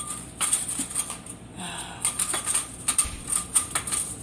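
Irregular light clicking and rattling, with a brief rushing sound about a second and a half in.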